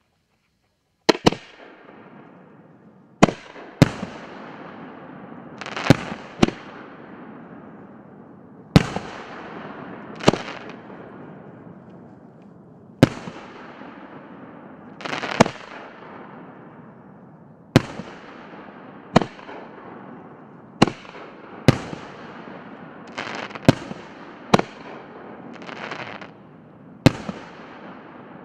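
Aerial fireworks cake of 4-inch shells firing shot after shot: about seventeen sharp bangs at irregular intervals, starting about a second in, each trailing off into a fading hiss.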